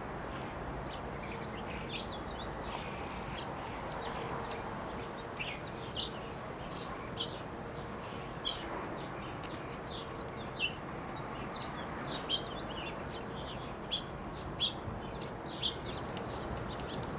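Several small birds chirping: short, scattered calls, many a second at times, over a steady background noise.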